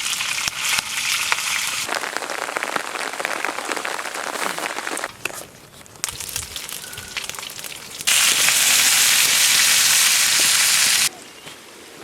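Rain hissing down, in several cut-together stretches of differing strength, with a much louder, heavier downpour for about three seconds near the end that cuts off suddenly.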